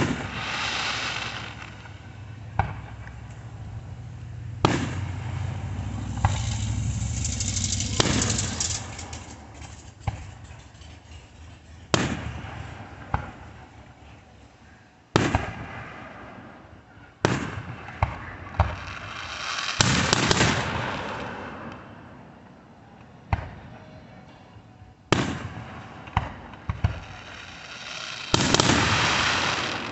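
Consumer fireworks going off: a dozen or more sharp bangs at uneven intervals, mixed with several crackling showers that each last a second or more.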